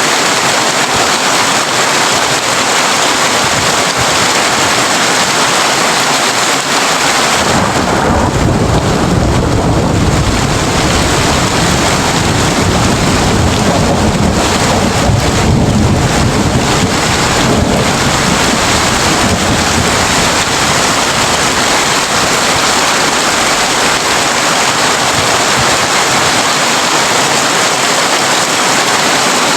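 Heavy rain drumming steadily on a tin roof. About seven seconds in, a long low roll of thunder rumbles for roughly twelve seconds and fades back into the rain.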